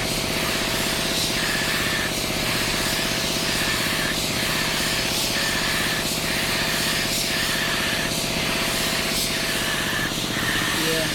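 A motor-driven machine running steadily with a hum and hiss, pulsing regularly about once a second.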